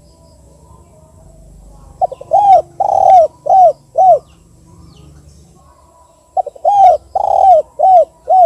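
Spotted dove cooing: two phrases of about five arched coos each, with a longer coo in the middle of each phrase, about four seconds apart.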